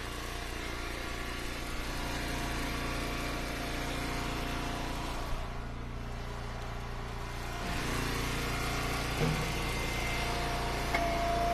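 Engine of an Eastonmade hydraulic wood splitter running steadily, the sound growing a little louder about eight seconds in.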